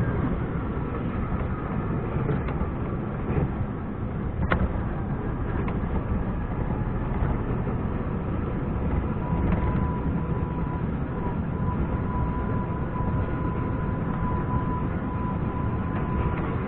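Scania R420 truck's diesel engine running steadily under way, a dense low rumble. A thin steady whine joins it about nine seconds in, and there is a single sharp click a few seconds in.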